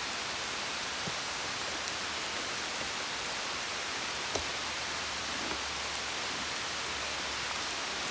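Steady hiss of light rain falling, with a few faint drop ticks.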